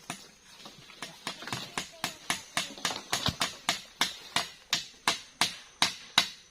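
Hammer driving a nail: a few light taps, then steady blows about three a second that grow louder.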